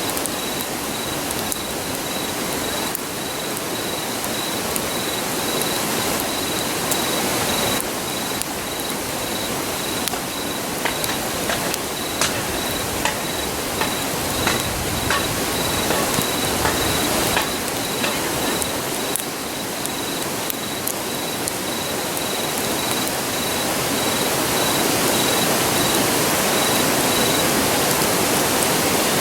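Steady rush of a river under a crackling wood campfire, with sharp pops mostly in the middle stretch. An insect chirps in an even, high-pitched pulse throughout, stopping near the end.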